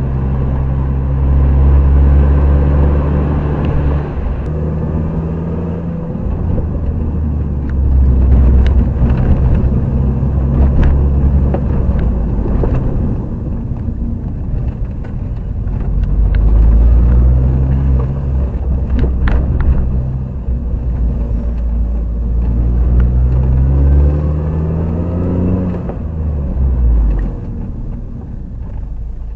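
Mini Cooper S R53's supercharged four-cylinder engine driving on the road with tyre and road rumble, the revs rising under acceleration a few times. It runs without any chain rattle, its timing chain freshly replaced.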